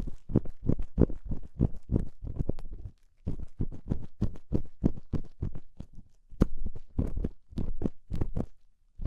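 Rapid, muffled scraping and rubbing strokes on the ears of a binaural ASMR microphone, about three a second, with short breaks. This is the fast, close, crunchy ear-cleaning sound (gori-gori).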